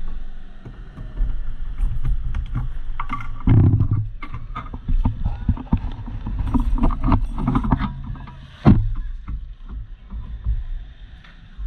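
Flood water splashing and sloshing over a low rumble, with irregular knocks and splashes, the loudest a little over three seconds in and near the three-quarter mark.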